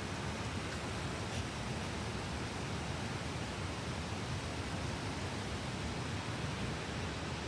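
Steady rushing of creek water running through the canyon, an even hiss without breaks.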